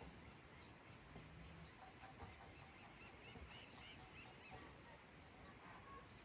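Faint countryside evening ambience: distant birds calling, with a quick run of short rising-and-falling chirps about three to four seconds in, over a steady high hiss.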